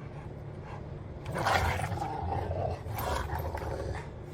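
A dog vocalizing loudly, two long calls one after the other, the first the louder.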